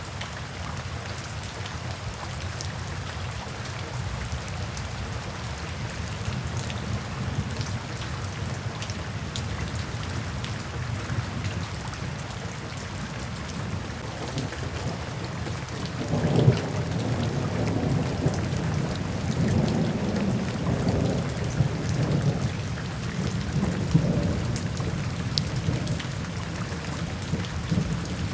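Steady rain falling, with thunder rolling in about halfway through and rumbling on for several seconds.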